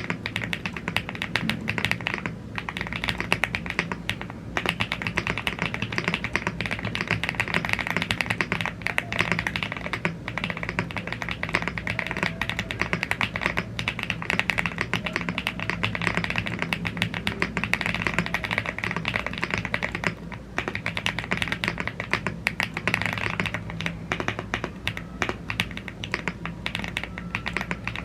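Continuous fast typing on a YUNZII AL75 gasket-mounted aluminium mechanical keyboard with Blue Grey tactile switches and double-shot PBT keycaps: a dense stream of key clacks, broken by brief pauses a few times.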